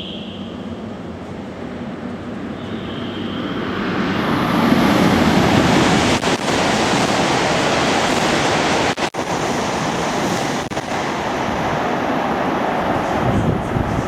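Tohoku Shinkansen train passing through the station at high speed without stopping: a rushing roar of air and wheels that builds over about four seconds and stays loud.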